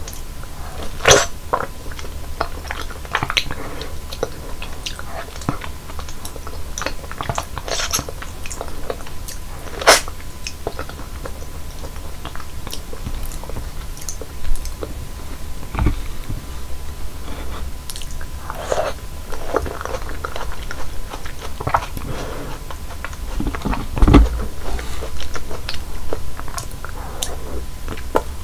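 Close-miked biting and chewing of fresh fruit: wet crunches and juicy mouth clicks, with a few sharper, louder bites spread through.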